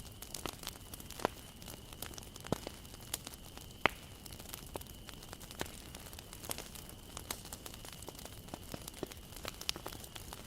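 Wood bonfire crackling: irregular sharp pops and snaps of burning wood over a faint steady hiss, with a faint steady high tone.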